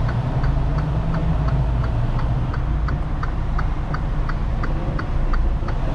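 Semi truck's diesel engine idling, heard from inside the cab, with a steady ticking about four times a second over it.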